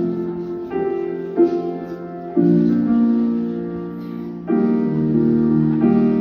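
Piano playing slow, sustained chords as a song's instrumental intro, a new chord struck every one to two seconds.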